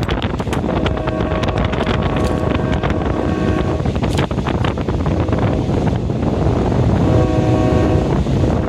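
Train running along the track, heard from on board: a loud, steady rumble with wind on the microphone and frequent knocks from the wheels over the rails. Twice a steady pitched whine comes in for a few seconds.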